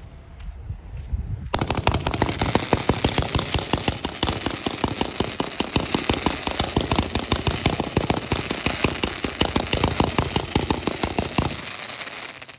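Consumer firework going off in a rapid, continuous run of sharp crackling pops. It starts suddenly about a second and a half in and stops after about ten seconds.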